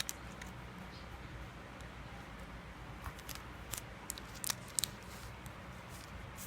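Small sharp clicks and ticks of sticker sheets and plastic or paper packaging being handled at close range, with a cluster of them in the middle.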